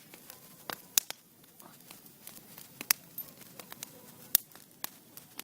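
Sharp clicks and snaps at irregular intervals, a few much louder than the rest, over a faint hiss.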